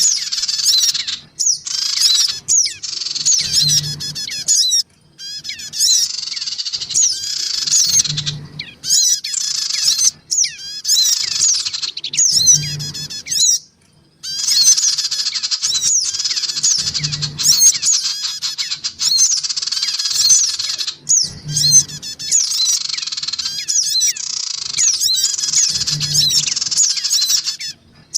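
Sogon birds calling in a dense, agitated chatter of rapid high twittering chirps, in long bursts broken by short pauses: a lure call meant to draw small wild birds in. A soft low thump recurs about every four and a half seconds.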